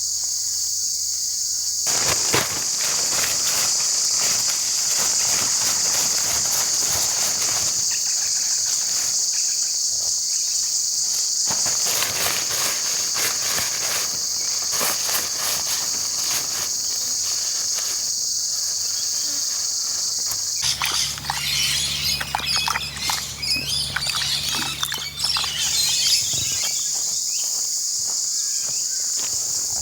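A steady, high-pitched insect chorus throughout, overlaid by intermittent crackling and rustling for much of the first half. From about twenty seconds in, a low hum sets in for around five seconds with more rustling and crackling, then stops.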